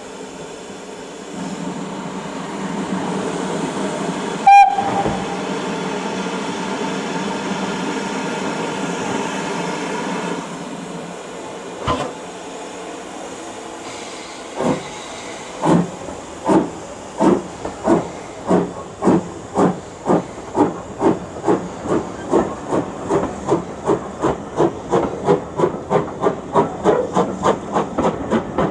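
Steam locomotive pulling away: a long hiss of steam with a brief sharp toot about four seconds in, then exhaust chuffs starting slowly about halfway through and quickening steadily as the train gathers speed.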